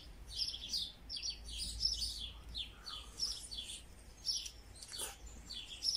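Small birds chirping: a continuous run of short, high, quick falling chirps, several a second.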